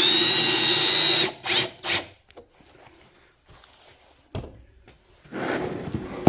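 Power drill run for about a second, its motor whine rising as it spins up, then two short blips on the trigger. A sharp click follows, then a quieter stretch of noise near the end.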